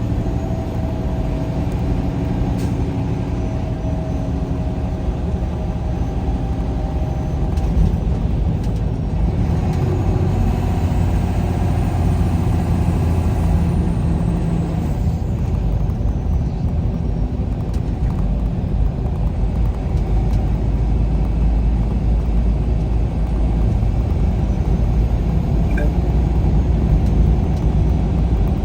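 A vehicle driving at road speed: a steady, loud low rumble of engine and tyre noise, with faint engine tones in the first several seconds.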